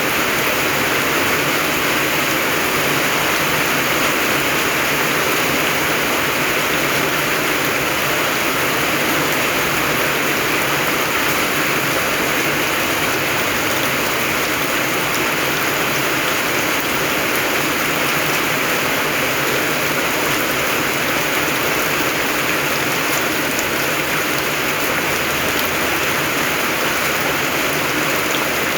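Steady rain falling: a dense, even hiss of drops that does not change.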